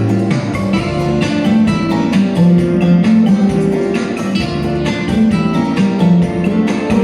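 Guitar music, with plucked and strummed notes in a steady flow.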